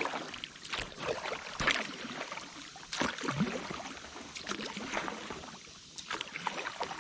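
Kayak paddles dipping and splashing in the water in irregular strokes, with water dripping and sloshing around the boat.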